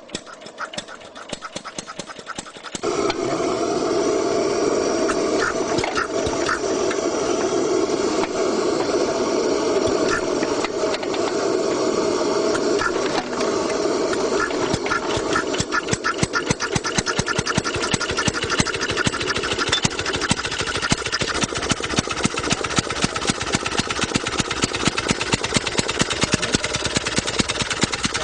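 Early motorcycle engine running with a rapid, even putt-putt of firing strokes. About three seconds in it gets much louder and then keeps running steadily.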